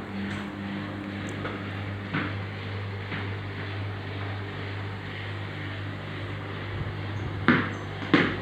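Samsung front-loading washing machine running, its motor turning the drum with a steady hum, with sharp knocks twice near the end. The motor runs smoothly now that it is turning again.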